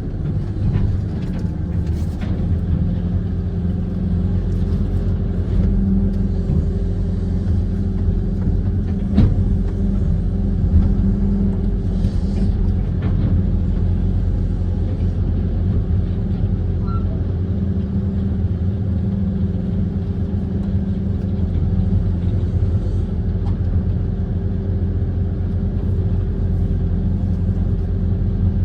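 Kobelco SK130 amphibious excavator's diesel engine running steadily with a low hum, with a few brief faint knocks.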